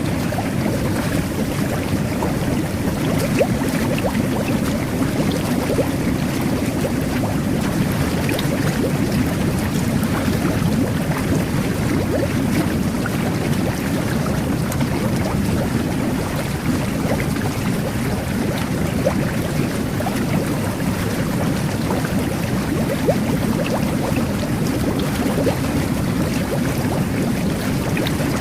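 Jet bath running: water churning and bubbling steadily as the jets pump air and water into the tub, with a dense crackle of small bursting bubbles.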